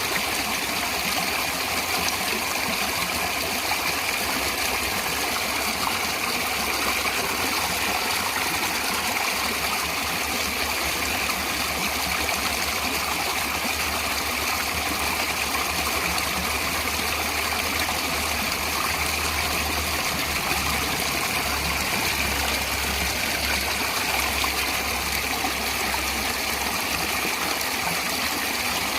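Natural running water, a steady rush that never breaks or changes.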